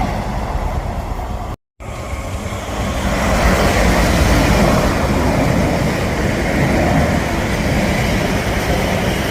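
Passenger train running through a station, a steady rumble of wheels on rail. It breaks off to dead silence for a moment about one and a half seconds in, then comes back louder.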